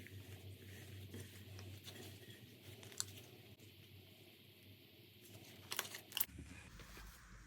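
Slime being handled and pressed by hand: quiet crackling and sticky handling sounds, with a sharp click about three seconds in and a few more close together near the end.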